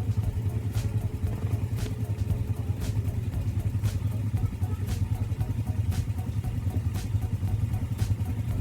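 ATV engine running steadily under way, a low hum with faint ticks about once a second.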